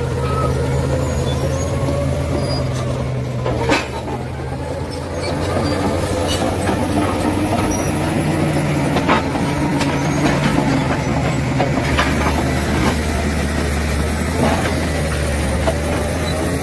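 Bulldozer's diesel engine running under working load, its note shifting up and down a few times, with occasional sharp metallic clanks.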